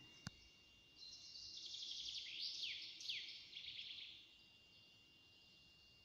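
A songbird singing faintly: a song of about three seconds made of a rapid high trill with two quick downward slurs in the middle.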